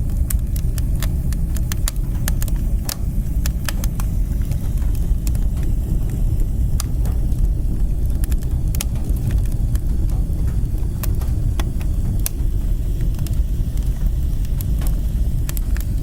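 Wood fire burning in a fireplace: a steady low rumble of the flames and draft, with irregular sharp crackles and pops of the burning wood.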